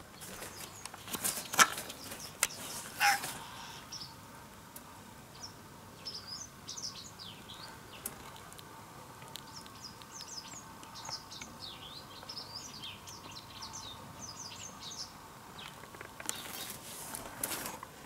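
Small birds twittering: a long run of quick, high, downward-slurred chirps through the middle. A few sharp knocks come in the first few seconds.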